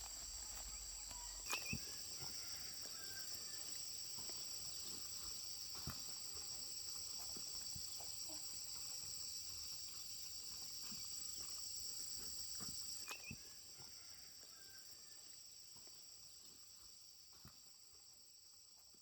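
Insects trilling in a steady, high-pitched chorus, with a couple of faint clicks; the chorus fades away over the last few seconds.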